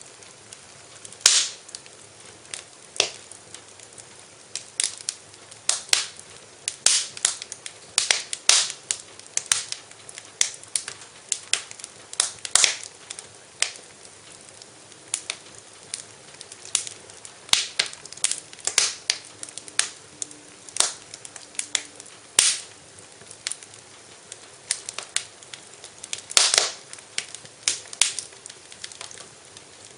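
Wood fire crackling in a fireplace: irregular sharp pops and snaps, a few a second, some much louder than others, over a faint hiss.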